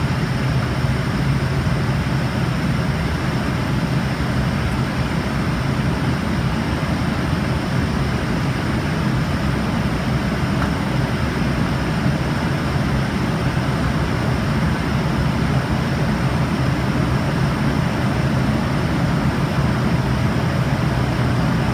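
Steady cabin noise of an Embraer RJ145 regional jet in flight: its tail-mounted turbofan engines and the rush of airflow, a constant deep hum with an even hiss and no change in level.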